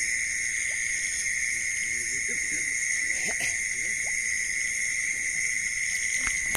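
Steady night chorus of insects such as crickets, a constant high-pitched shrilling, with faint distant voices under it.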